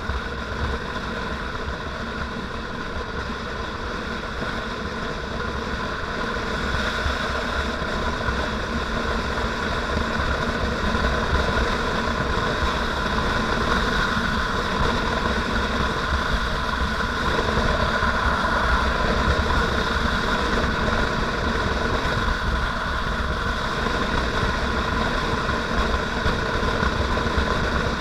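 Motorcycle engine running steadily while riding, with a low rumble underneath; it grows gradually louder over the first dozen seconds or so, then holds.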